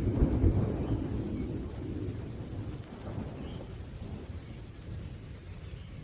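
Rolling thunder rumbling, loudest in the first second and slowly fading away, over steady falling rain.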